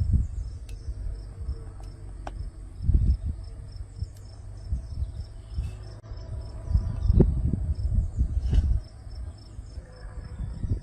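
Crickets calling: one steady high trill, and a second chirping regularly a few times a second. Loud low rumbling bursts come and go over it, strongest about three seconds in and again in the second half.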